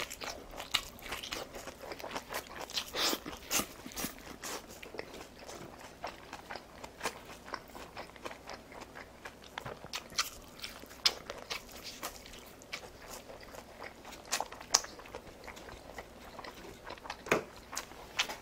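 Close-miked biting and chewing of a rolled fried-egg omelette, with many irregular small wet clicks and crunches from the mouth.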